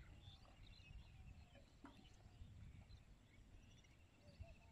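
Near silence: faint birds chirping and trilling in the distance, over a low rumble.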